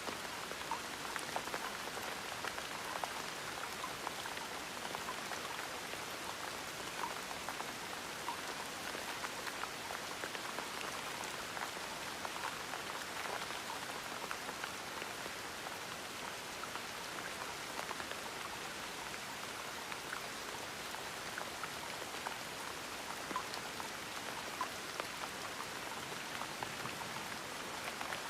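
Steady gentle rain falling, with many small, distinct drops pattering on a surface over a continuous hiss.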